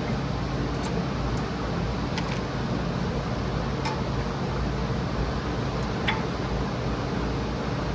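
Steady mechanical hum, with a few short, light clicks about two, four and six seconds in.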